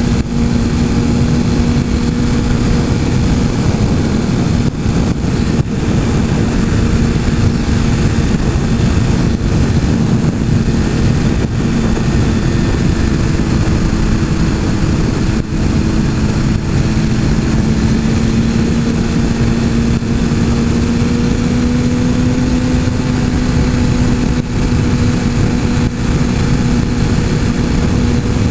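Motorcycle engine running at a steady cruising speed under a heavy rush of wind noise, its note holding nearly constant and rising slightly about two-thirds of the way through.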